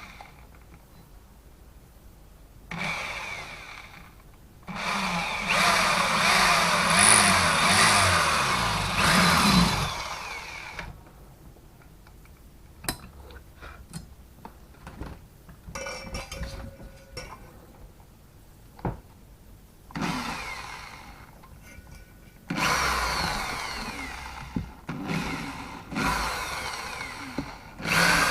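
Electric hand drill boring a hole through a steel racing-exhaust clamp. It runs in four bursts: a short one, a long one of about six seconds, and two more near the end. Clicks and knocks of handling come in the pauses.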